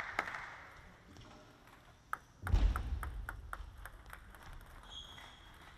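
Table tennis ball clicking back and forth in a fast rally, sharp ticks about three a second off the rackets and table. A low rumble rises under the hits about two and a half seconds in.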